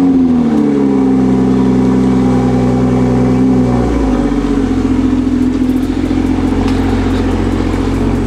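Mk5 Toyota Supra's engine just after starting. The start-up flare falls back within the first second into a steady fast idle, and the pitch drops a step about four seconds in, then holds steady as the car rolls slowly out of the driveway.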